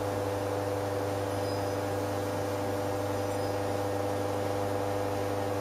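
Commercial espresso machine's pump running with a steady hum during a two-cup shot extraction.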